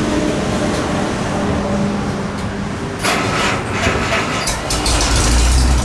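A classic car's engine being cranked over, catching about four and a half seconds in and settling into a steady run, as a cold start for warm-up.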